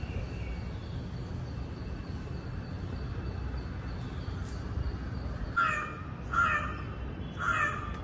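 Three loud, harsh bird calls, about a second apart, in the last few seconds, over a low steady background rumble.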